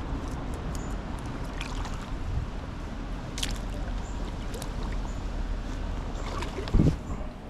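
Creek water running as a steady rush, with scattered light clicks and a dull thump near the end.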